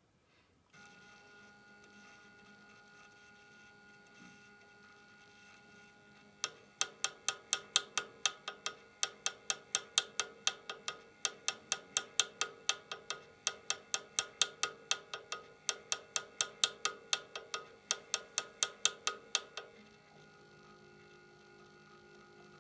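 Faulty stepper motor of a Kremen device, with a faint steady electrical hum, stepping with sharp, regular clicks about three times a second for some thirteen seconds. The clicks then stop and only a hum of a changed pitch remains.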